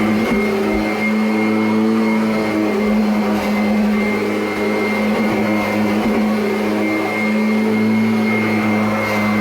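Kirby Avalir upright vacuum cleaner motor running steadily with a newly fitted belt, a low hum with a thin high whine over it. The owner finds it sounds pretty good, though the motor sounds a little tight.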